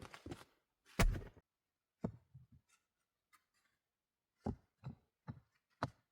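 A series of knocks and thuds: one heavy thump about a second in, a few lighter knocks soon after, then four sharp knocks about half a second apart near the end.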